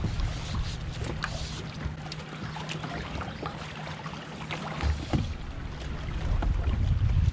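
Wind buffeting the microphone and water lapping against a kayak hull, with scattered small knocks and clicks. A faint steady hum runs for the first five seconds.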